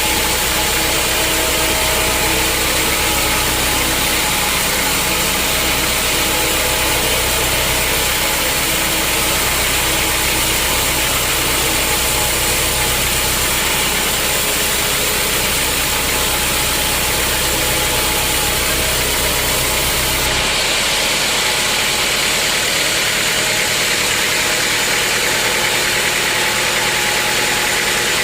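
Sawmill machinery running steadily: a constant engine-like drone under a hiss. About twenty seconds in the sound changes abruptly, the low drone dropping away while the hiss continues.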